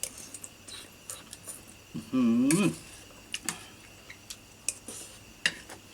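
Eating sounds: a spoon clicking and scraping on a plate, with mouth clicks while chewing. About two seconds in comes one short hummed 'mm' with a dipping then rising pitch, the loudest sound.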